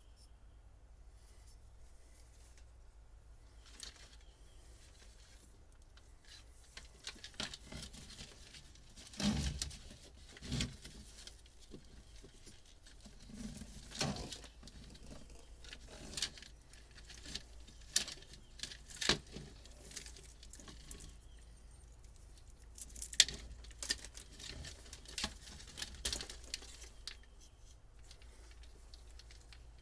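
Irregular clicks, knocks and rustling of hand work on old boat wiring being pulled and cut out, quiet at first, then busier about seven seconds in.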